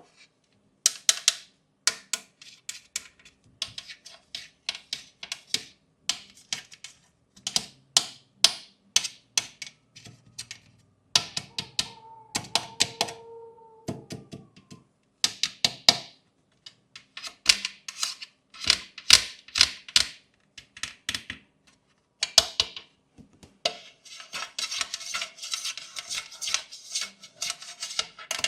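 Plastic fidget toys clicking and snapping in quick, irregular runs, with a denser rattling run near the end and a faint wavering tone in the middle.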